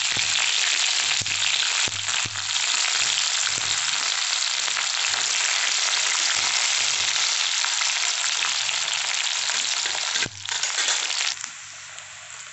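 Sliced onions and green chillies sizzling loudly in hot mustard oil in a kadhai. The sizzle drops off sharply about ten seconds in, and a quieter frying sound follows near the end.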